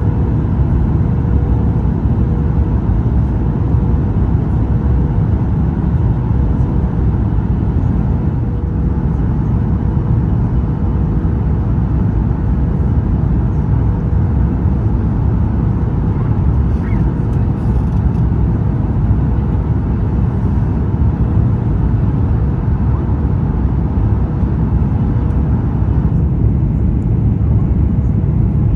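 Steady low rumble of engine and airflow noise inside the cabin of a Boeing 737 MAX 8 on final approach, with a faint steady tone running through it.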